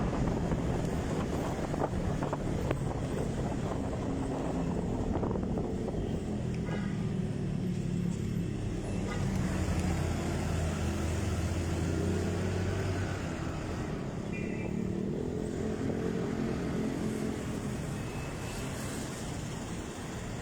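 Motorcycle engine running while the bike is ridden, its pitch rising and falling as the engine speed changes.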